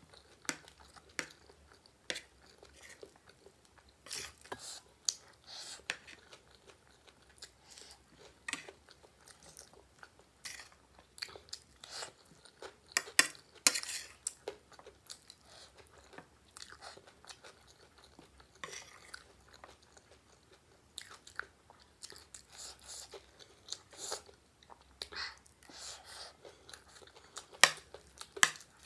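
Close-up chewing and crunching of a mouthful of spicy gilo chatpate, a moist puffed-rice snack, in irregular bursts of short crackles. A spoon scrapes and clicks on the plate while more is scooped up.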